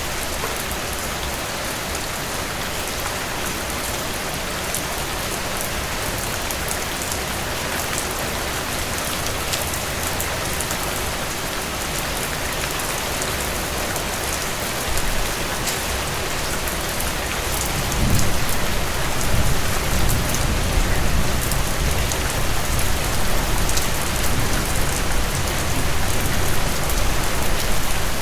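Heavy rain pouring steadily in a dense, even hiss. About two-thirds of the way through, a low rumble comes in and grows louder to the end.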